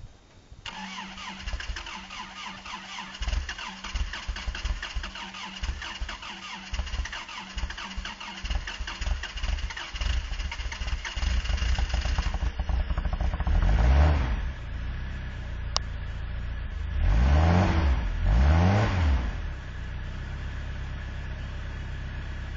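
Truck engine on a hard cold start in below-zero weather: the starter cranks with a whine for about eleven seconds before the engine catches, then it is revved up once and twice more before settling into a steady idle.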